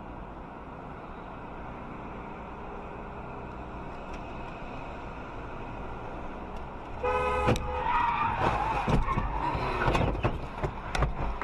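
Steady road and engine noise of a car on the move. A car horn sounds briefly about seven seconds in, followed by a few seconds of louder, jumbled sound with several sharp knocks.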